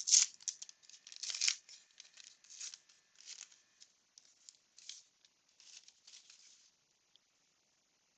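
A 1989 Upper Deck baseball card pack's wrapper being torn open and crinkled. The tearing and rustling is loudest in the first second and a half, then thins to scattered light rustles as the cards are handled.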